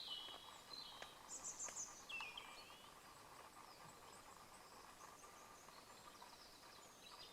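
Faint woodland birdsong: a few short high chirps and twittering trills in the first two seconds or so, then quieter morning air with a faint steady hum.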